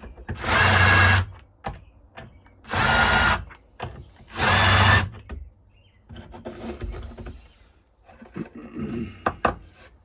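Electric drill run in three short bursts of under a second each, opening up a pin hole to 3/16 inch for brass tube. Quieter scraping and handling clicks follow in the second half.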